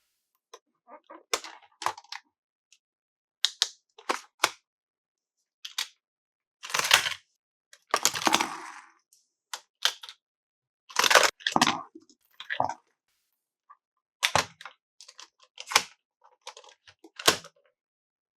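Plastic toy pieces and packaging handled by hand: scattered clicks and taps with a few short rustles.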